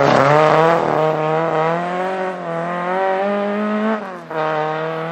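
Rally car engine running hard at high revs on a stage, its note fairly steady and wavering slightly. Around four seconds in the revs dip briefly before the engine pulls on.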